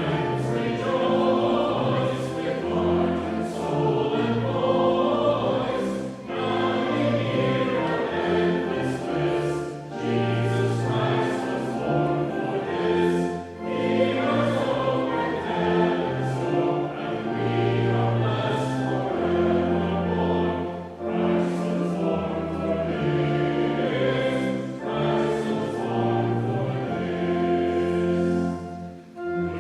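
A group of voices singing a hymn with instrumental accompaniment, in sustained phrases with brief breaks between them.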